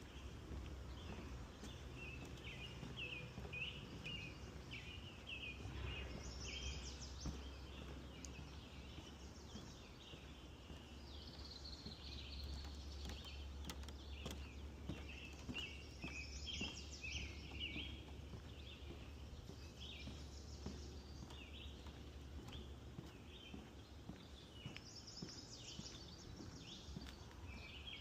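Songbirds singing in a swamp woodland: a steady run of short, quick chirps, with a higher-pitched song phrase breaking in about every ten seconds.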